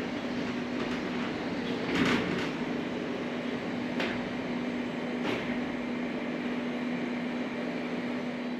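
A steady machine hum holding one even tone, with a few short knocks or clatters about two, four and five seconds in.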